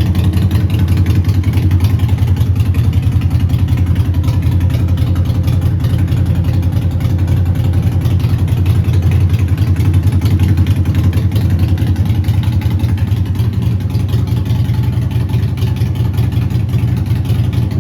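Harley-Davidson SuperLow 1200T's air-cooled 1200 cc Evolution V-twin idling steadily, a low, even pulse of firing strokes with no revving.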